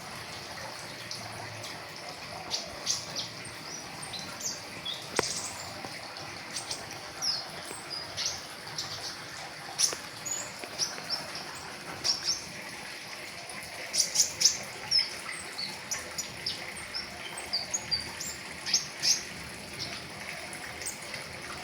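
Pentis raja, a small flowerpecker, singing a rapid string of short, high chirps and ticks, packed closely together with a burst of louder notes a little past the middle.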